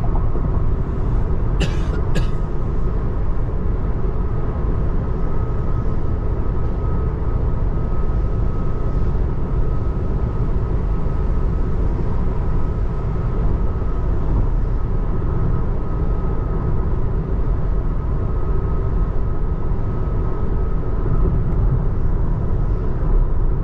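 Steady road and tyre noise inside the cabin of a 2024 Tesla Model 3 Long Range AWD driving at speed, with a thin steady whine above the rumble. Two sharp clicks come about two seconds in.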